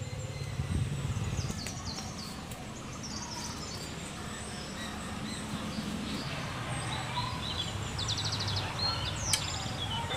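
Outdoor ambience: small birds chirping and trilling in short bursts, over a low steady background rumble.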